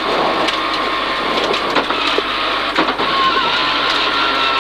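Cabin noise inside a Peugeot 306 rally car rolling slowly: the engine is running and the car knocks and rattles, with a brief high squeak a little over three seconds in.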